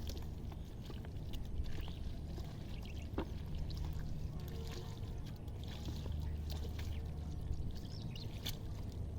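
Water splashing and dripping in a river, with many small irregular splashes and ticks, as a fishing net is worked in the water. A steady low hum runs underneath.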